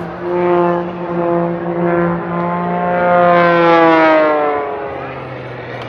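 Propeller engine of an aerobatic sports plane passing by in a flyby. The drone swells to its loudest about three and a half seconds in, then drops in pitch as the plane goes past and away.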